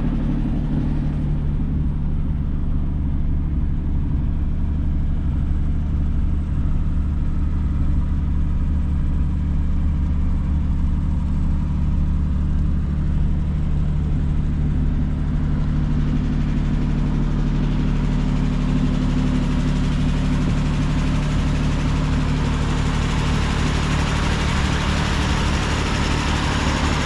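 1941 Plymouth's flathead straight-six idling steadily. Over the last third a brighter hiss rises above the idle.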